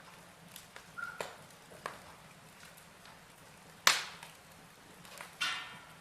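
Wood fire of burning logs in a fireplace crackling: scattered small snaps over a faint hiss, with a loud sharp pop about four seconds in and another near the end.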